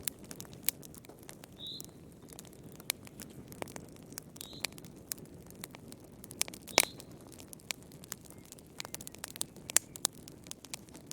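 Wood fire in a fireplace crackling: irregular sharp pops and snaps over a steady low rumble of flames, with a few brief high squeaks and one loudest pop about seven seconds in.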